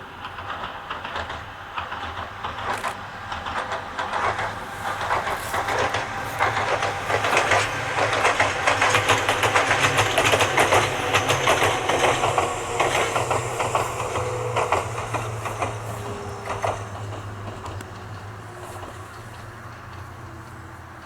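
Ohmi Railway electric train passing, its wheels clicking rapidly over the rail joints. It grows louder to a peak about halfway through, then fades as it runs away.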